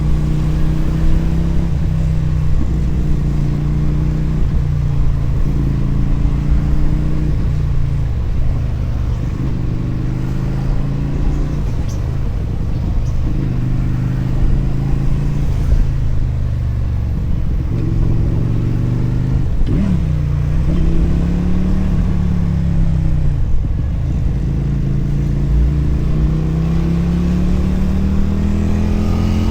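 Motorcycle engine and exhaust under way, the pitch climbing with throttle and dropping back again and again as the rider shifts gears and eases off. There are a series of short climbs in the first half, then a long steady rise that falls away near the end.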